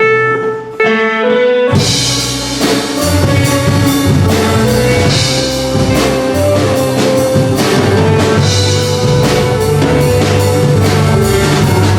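Live band music: a short run of single notes on one instrument, then about two seconds in the full band enters with a drum kit keeping a steady beat.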